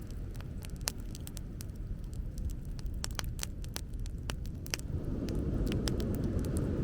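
Wood bonfire crackling, with irregular sharp pops and snaps, over a steady low rumble that swells about five seconds in.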